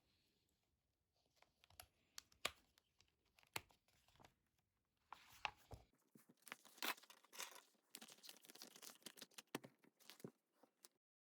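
Crinkling and tearing: a scatter of sharp crackles that grows denser about halfway through, then cuts off abruptly near the end.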